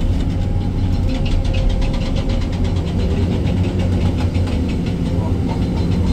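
Excavator diesel engine running steadily, heard from inside the cab. For the first few seconds a fast rattle of knocks, about ten a second, sits over it.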